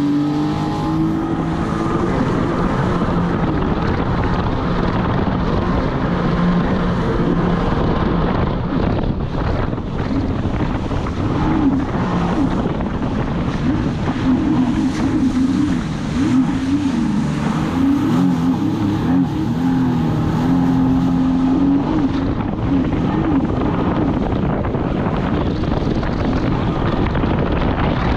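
Jet ski (Sea-Doo personal watercraft) engine at full throttle. Its pitch climbs steeply over the first couple of seconds as it accelerates, then holds at top speed, wavering up and down, with wind and water rushing over it.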